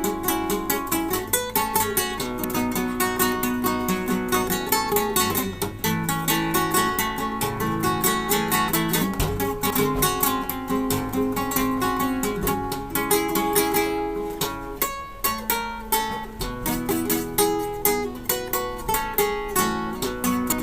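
Acoustic guitar played solo: a steady stream of quickly plucked notes and chords, thinning briefly about fourteen seconds in.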